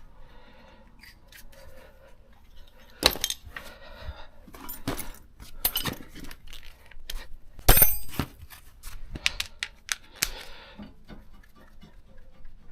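Metal tools and brake parts clinking and clattering during a brake job: an irregular run of sharp metallic clicks and knocks, the loudest two about three and eight seconds in.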